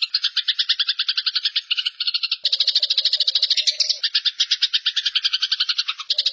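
Eurasian tree sparrow giving its harsh fighting chatter: a fast, continuous rattle of about ten chirps a second.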